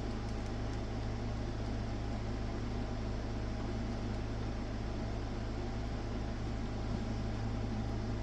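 Steady electrical hum, several low tones, with an even fan-like hiss over it: the running sound of mains-powered bench test equipment.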